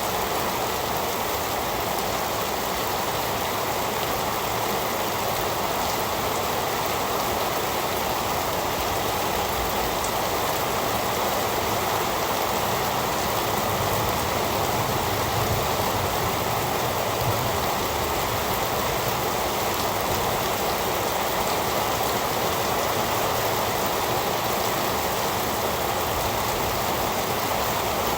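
Heavy rain falling steadily, an even, unbroken wash of rain noise.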